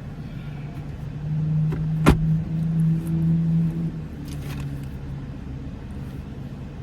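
Steady low hum of an idling car and its air conditioner, heard from inside the cabin, swelling for a couple of seconds in the middle, with one sharp click about two seconds in.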